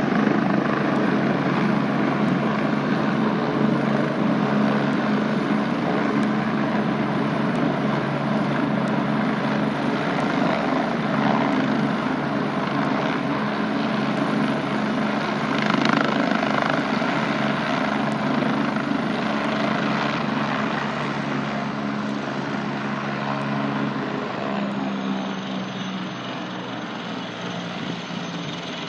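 Helicopter landing: steady rotor and turbine noise throughout. Over the last several seconds it grows gradually quieter and a high whine drops in pitch as the low engine note changes.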